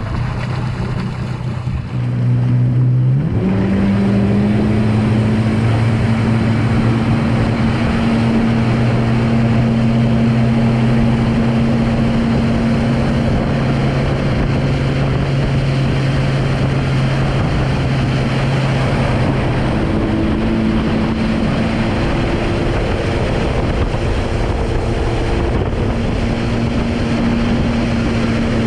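Boat engine opening up about two seconds in, its pitch rising as it pulls the tube away, then running steadily at speed with wind and water rushing past.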